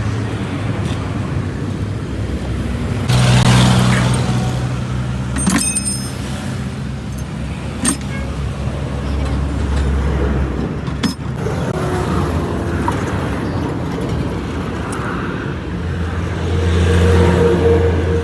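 Motor vehicles passing on the road, their engines swelling twice, with a few sharp metallic clinks, one of them ringing.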